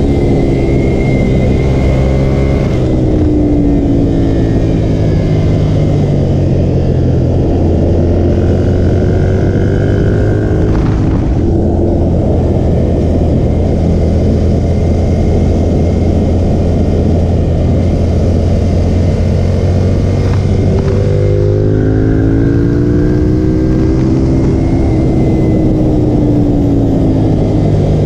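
Ducati V-twin motorcycle engine under way, its pitch rising and falling with the throttle over a steady rush of wind noise.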